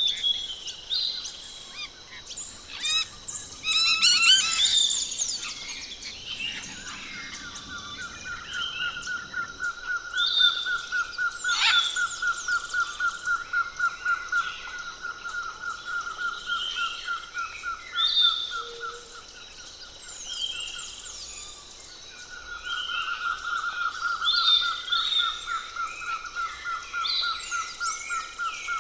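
Forest birds calling: many short chirps and quick falling whistles from several birds, over a long, rapid pulsing trill that starts about a quarter of the way in, pauses briefly and then resumes.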